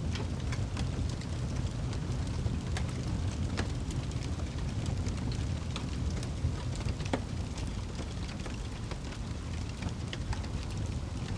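Wood fire burning in a fireplace: scattered sharp crackles over a steady low rumble of the flames.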